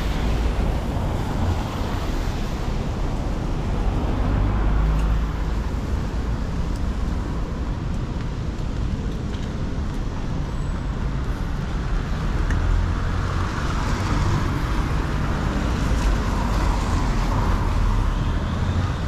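City street traffic: a steady rumble of cars with passing vehicles swelling louder now and then.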